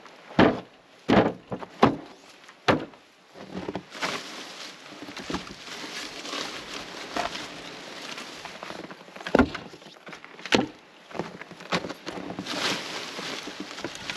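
Split firewood being handled and stacked: a series of sharp wooden knocks, several in the first three seconds and more scattered later, over a rustling, scuffing noise from about four seconds in.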